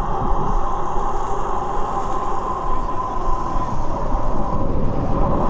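Car driving, with a steady engine and road rumble.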